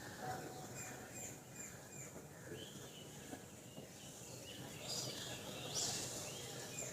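Small birds giving many short, high chirps, one after another, over faint outdoor background noise. A brief hiss-like burst comes near the end.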